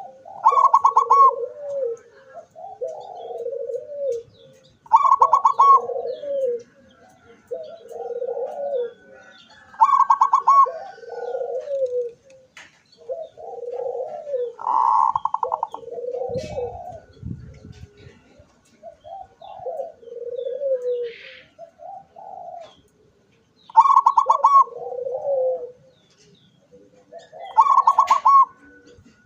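Zebra dove (perkutut) cooing over and over. Every few seconds comes a loud, higher phrase that opens with a fast rattling trill, and softer, lower coos run in between.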